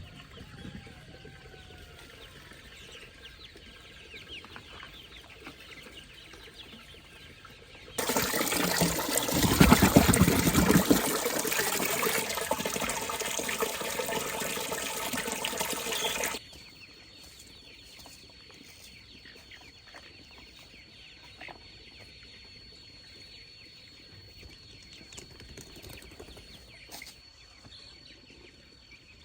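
Chickens clucking over a rainy background. Heavy rain hisses loudly for about eight seconds in the middle, starting and stopping abruptly. After that a thin, steady high tone carries on under the clucking.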